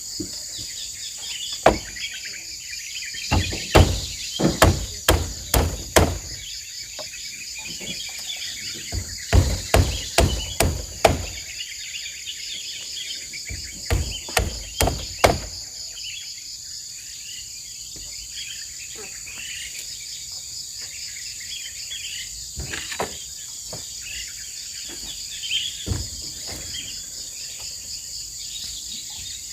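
Hammer blows nailing fence pieces, in runs of several quick strikes separated by pauses of a few seconds. A steady high buzz of insects runs underneath.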